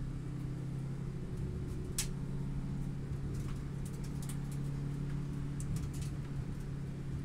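Subaru WRX STI's turbocharged flat-four engine running hard at a steady pitch along the track, heard onboard over a low rumble. A sharp click sounds about two seconds in, with a few fainter ticks later.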